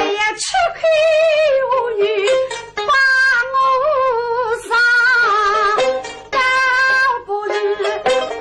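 Suzhou tanci singing: a voice sings long, drawn-out phrases with a wavering pitch over a plucked-string accompaniment, with short breaks between the phrases.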